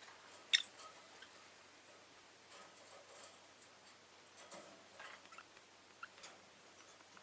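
Rosy-faced lovebirds in their cage making scattered faint ticks and short, high chips, with one sharper chip about half a second in.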